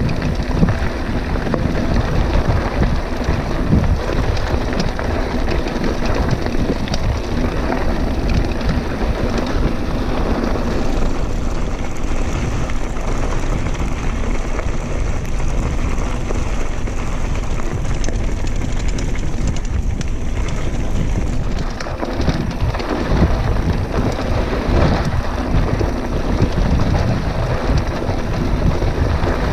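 Wind rushing over the camera microphone, mixed with the rumble and rattle of a mountain bike rolling over a rough dirt trail.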